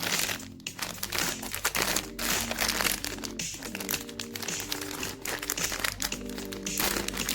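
A plastic snack wrapper crinkling as it is handled and opened, over background music.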